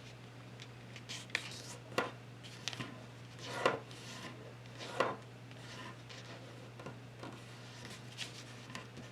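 A sheet of paper being folded and creased by hand: scattered rustles and crisp crackles, the loudest about a second and a half, three and a half, and five seconds in, over a low steady hum.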